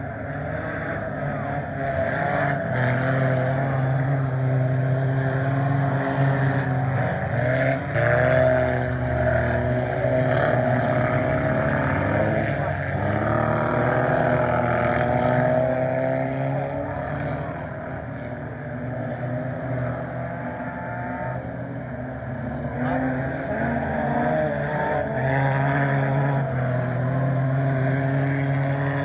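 Pack of scramble race cars running on a dirt oval, several engines revving and easing as they circle, the sound swelling as the pack passes close and fading as it moves off.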